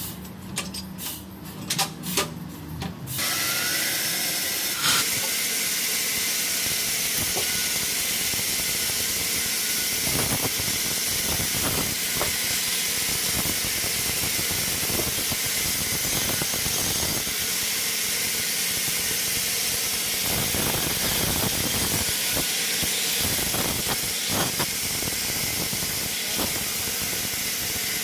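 A sawmill saw cutting through a log: a few knocks, then about three seconds in a steady hiss with a thin high whine starts and holds, with scattered knocks throughout.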